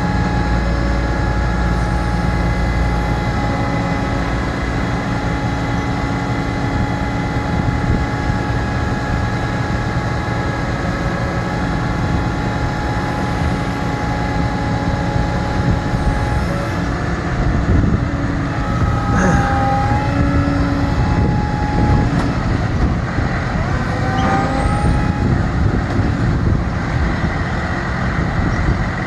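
Ford F-750 utility truck's engine running steadily with a steady whine over it, as it drives the hydraulics of an Altec AA55 bucket boom.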